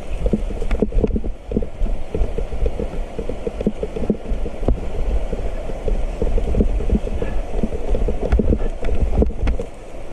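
Wind rumbling on the microphone over the irregular rattles and knocks of a mountain bike riding a rough trail.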